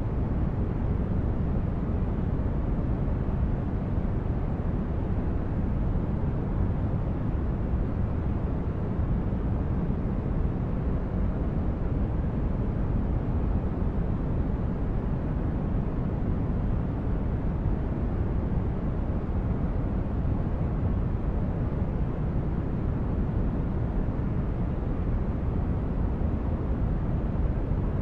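Continuous ambient noise track: a steady, deep rumbling hiss, heaviest in the low end and duller toward the top, with no change in level or pattern.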